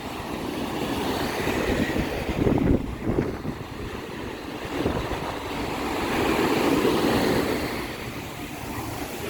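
Wind buffeting the microphone in uneven gusts, a rumbling, rushing noise.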